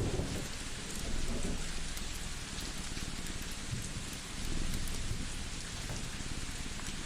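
A cat purring close up, a low pulsing rumble that swells every few seconds, over the steady hiss and scattered pops of a crackling wood fire.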